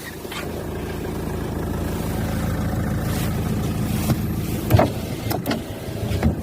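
2004 Hyundai Santa Fe's engine idling steadily, with a few sharp clicks or knocks over it, the loudest nearly five seconds in.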